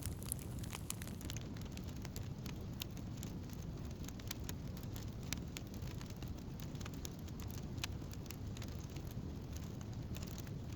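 Wood campfire burning: frequent sharp crackles and pops from the burning wood over a steady low rumble of the flames.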